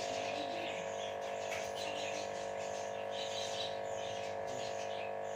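Pet birds chirping and twittering in short repeated bursts over a steady, continuous hum.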